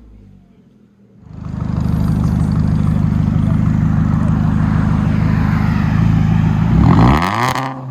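Straight-piped exhaust of a Ford Fusion's non-turbo 2.5 L four-cylinder, running loud and steady from about a second in, its pitch sweeping near the end before it falls away.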